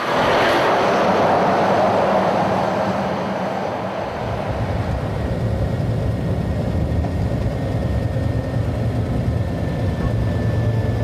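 Scania R-Series truck on the move: a broad rushing hiss swells at the start and fades over a few seconds, then the steady low drone of the engine and road noise.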